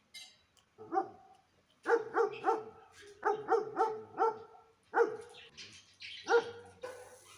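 A dog barking repeatedly: about ten short barks, some in quick runs of three or four.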